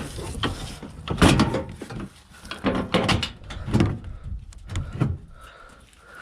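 Knocks and clatters of parts and tools being handled while the van's front end is dismantled: several clusters of sharp clunks.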